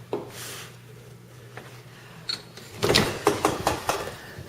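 A door being unlatched and pushed open: a quick cluster of clunks and rattles about three seconds in, over a low steady hum.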